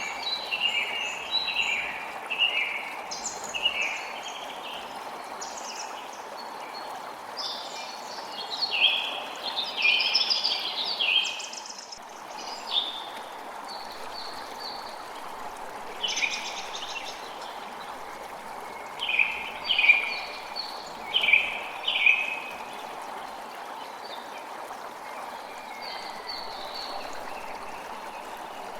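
A creek running steadily, with songbirds calling in short bursts of chirps over it, loudest in clusters a third of the way in and again past the middle.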